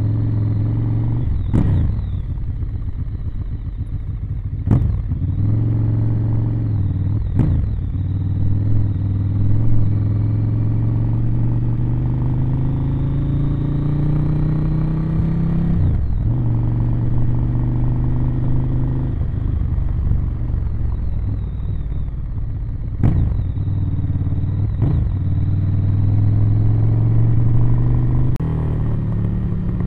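Ducati Monster 1100 EVO's air-cooled L-twin running through its stock exhaust while riding, mostly at a steady pitch, climbing for a few seconds in the middle as it accelerates and then dropping suddenly. Several sharp knocks cut through the engine sound at irregular moments.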